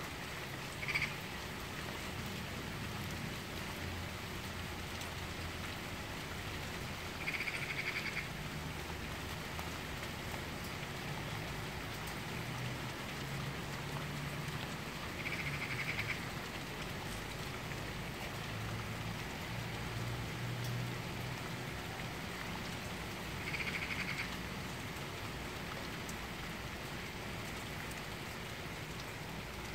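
Steady rain falling. A short pulsing call comes four times, about eight seconds apart, and a faint low rumble comes and goes in the middle.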